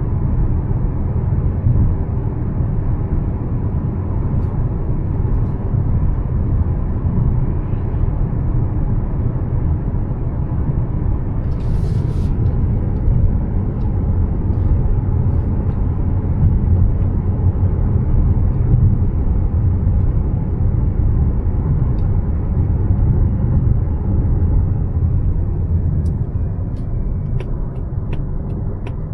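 A 2025 Mazda CX-5 with a naturally aspirated 2.5-litre e-SKYACTIV G four-cylinder on the move: a steady low rumble of road and engine noise, with a brief hiss about twelve seconds in.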